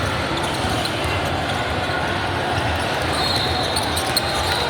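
Basketball bouncing on a gym court floor during play, as repeated low thuds over a steady background hubbub.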